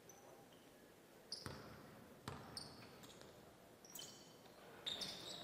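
A basketball bouncing on a gym floor, four separate bounces, with high, brief sneaker squeaks on the court. Faint overall.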